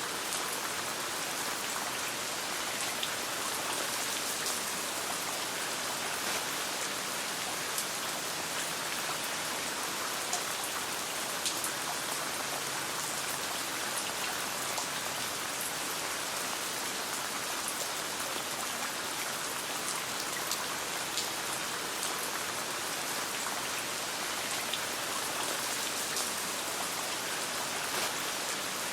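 Steady rain falling, an even hiss with many small sharp ticks and pops scattered through it, mixed with the crackle of a campfire.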